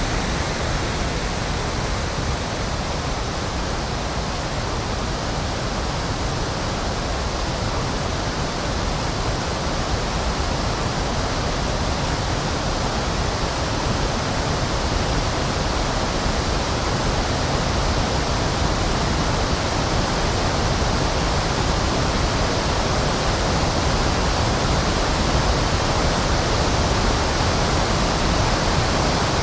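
Electronically generated pink noise: a steady, even hiss with a strong low end, like a waterfall or surf, with no events or changes.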